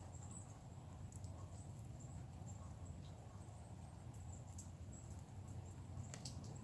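Faint outdoor ambience: a steady low rumble under thin, high-pitched chirping, with a few sharp ticks scattered through.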